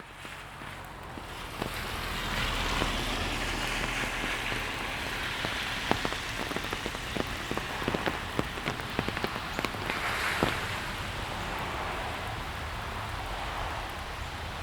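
Steady rain falling on hard surfaces, fading in over the first couple of seconds. Between about six and ten seconds in, a run of sharp, close taps of drops stands out over it.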